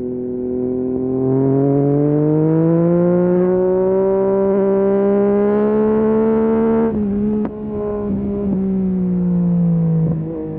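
Yamaha MT-09 SP's three-cylinder engine through a full Akrapovic race exhaust, pulling with slowly rising pitch for several seconds. About seven seconds in the throttle closes and the pitch drops, with a few sharp cracks. The engine then runs on with a gently falling note and dips again near the end.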